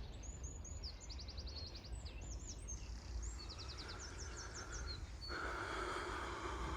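A songbird singing a quick, varied song of high trills and rapid repeated notes, over a low outdoor rumble. From about five seconds in a steady hiss joins.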